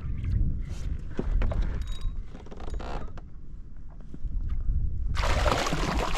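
Spinning fishing reel being cranked, with mechanical clicking and creaking over a low rumble. About five seconds in, a loud rushing hiss sets in.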